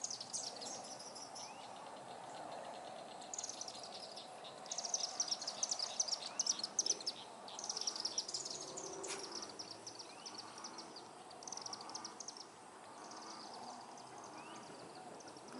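Evening wildlife chorus at a pond, faint: rapid high-pitched chirps and trills come in bursts of a second or two, over a steady low hum.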